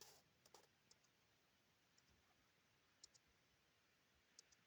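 Near silence with a few faint clicks of a computer mouse, a pair about half a second in and single ones around three and four and a half seconds in.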